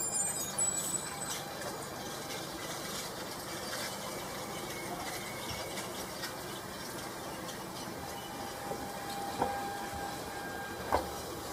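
Stadler FLIRT electric train approaching at speed from a distance through snow: a steady rushing sound, with brief high squeals in the first second and two sharp clicks near the end.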